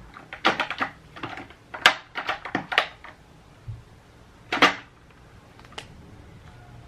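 A quick run of sharp clicks and clattering knocks, then two more separate knocks near the end, like small hard objects being handled and set down.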